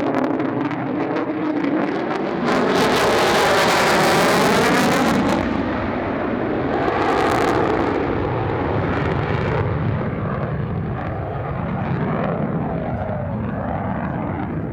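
F-35A Lightning II's single afterburning turbofan jet engine passing by. The noise swells to its loudest about three to five seconds in, with a sweeping, phasing tone as the jet moves past. It flares again briefly around seven seconds, then settles into a lower, steady rumble.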